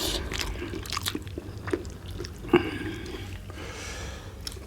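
Close-up chewing and biting of roast chicken, with wet smacking and squishing mouth sounds and scattered small clicks, one sharper smack about halfway through.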